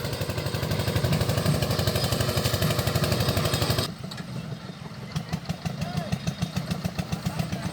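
Tractor engine running with a rapid, even chugging. About four seconds in it turns quieter and duller, and the chugging carries on.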